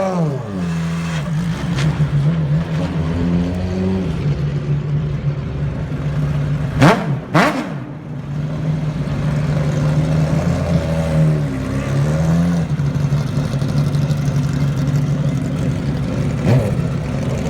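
Ferrari 575 GTC Evoluzione's V12 idling through its straight race exhaust, with two sharp throttle blips in quick succession about seven seconds in. The revs fall back to a steady idle after each blip.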